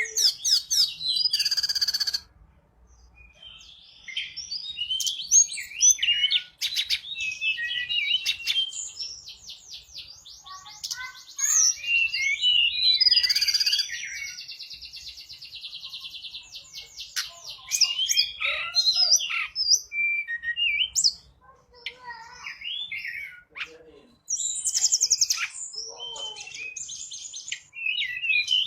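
Tledekan gunung singing energetically. Its long, varied song of chirps and rapid trills is broken by a few short pauses.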